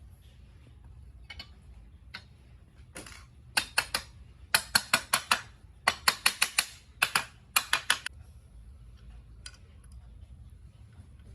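Sharp clicks or taps in several short quick groups, about five a second, starting about three and a half seconds in and stopping about three seconds before the end.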